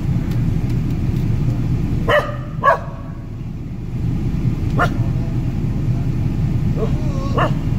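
A dog barking a few times in short sharp barks, over the steady low rumble of a car.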